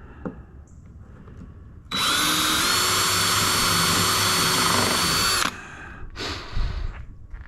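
Power drill drilling a pilot hole: it runs for about three and a half seconds, its pitch stepping up shortly after it starts, then stops abruptly.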